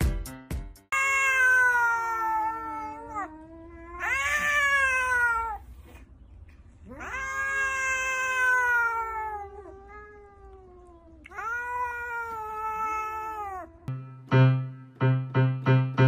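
A domestic cat meowing: four long, drawn-out meows, each sliding down in pitch at the end. Rhythmic piano music starts near the end, and a moment of music is heard at the very start.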